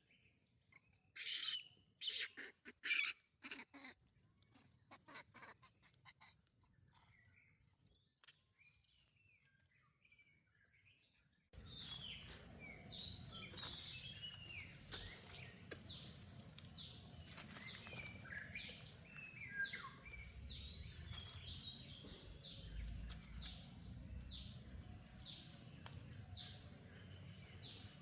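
Outdoor ambience with high chirping animal calls. A cluster of sharp, squeaky calls comes in the first few seconds, then faint chirps. After a sudden change about a third of the way in, a steady high whine sounds under repeated short falling chirps, about one a second, over a low background rumble.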